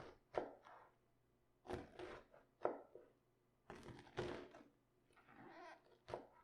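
Crisp crunches and knocks of cabbage being cut on a cutting board for sauerkraut, about six irregular strokes.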